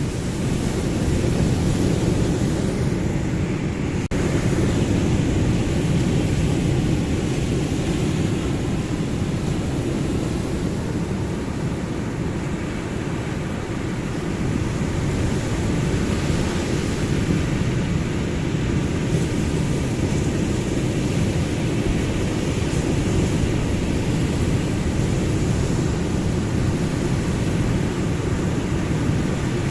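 Ocean waves: a continuous low rush of surf that swells and eases slowly, with no single distinct breaker.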